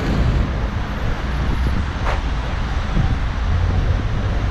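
City road traffic: a steady rumble of vehicles and tyres, with a brief sharp hiss about two seconds in.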